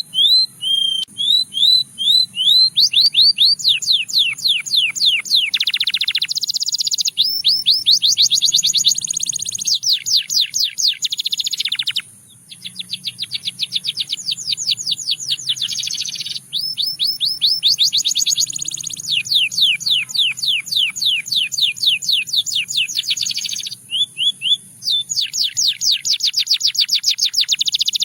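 Canary singing a long, continuous song of rapid repeated notes in fast rolls and trills, broken only by a brief pause about twelve seconds in and another near the end.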